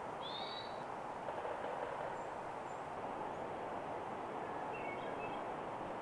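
Wild birds chirping: one clear two-note chirp right at the start, a couple of faint high chirps a couple of seconds in, and a few softer chirps near the end, all over a steady rushing background noise.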